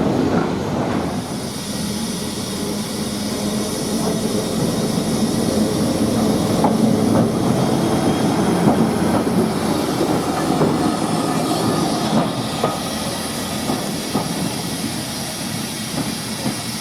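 A train running along the track, wheels clicking over the rails, growing louder to about halfway and then fading as it passes.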